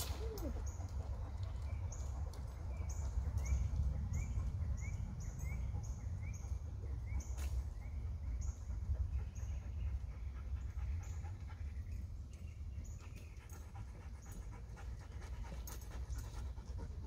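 Outdoor ambience: a steady low rumble with a bird repeating a short chirp about twice a second, from about a second in until about seven seconds in.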